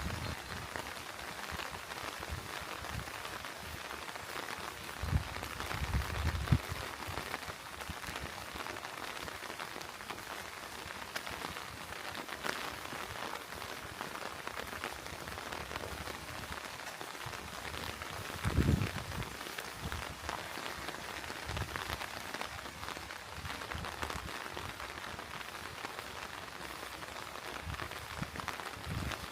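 Steady rain, a dense patter of drops. A few low thumps stand out about five to six seconds in and again near nineteen seconds.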